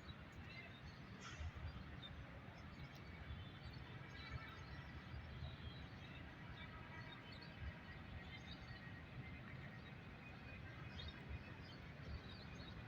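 Faint outdoor ambience: a steady low rumble with scattered bird chirps.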